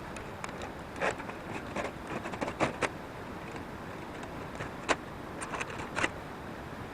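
A series of irregular sharp clicks and knocks, a dozen or so spread unevenly, over a steady background hiss.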